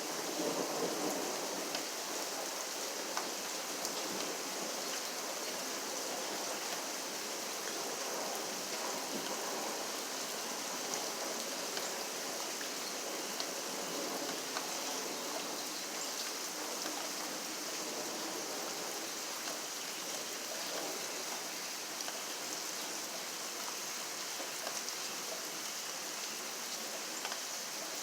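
Steady rain falling, an even hiss of water dotted with many small drop ticks on a surface.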